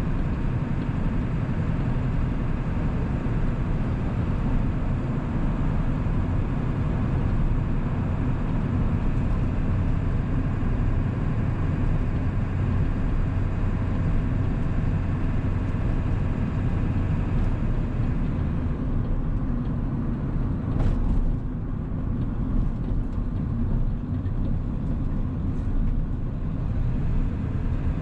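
A 1997 Ford 7.3 Powerstroke turbo-diesel V8 is running steadily while the truck is driven, with road noise. About eighteen seconds in, the higher part of the sound drops away, and a single sharp knock comes a few seconds later.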